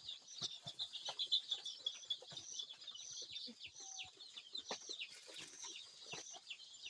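A box of young local chicks peeping, many short high cheeps overlapping without pause, mostly falling in pitch, with a few light clicks and knocks among them.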